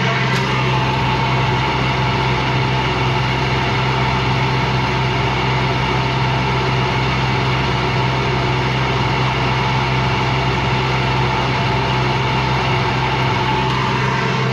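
Empty front-loading-style washing machine on its spin cycle, running with a steady low hum and a grinding noise, which the owner puts down to worn motor bearings or drum bearings.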